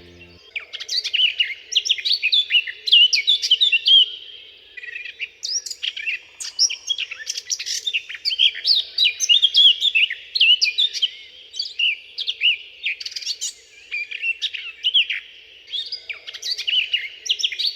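Blackcap singing: fast, rich warbling phrases of high whistled notes, with short pauses between phrases.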